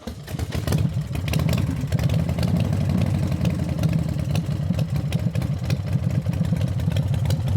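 Motorcycle engine running steadily with a fast, even exhaust beat.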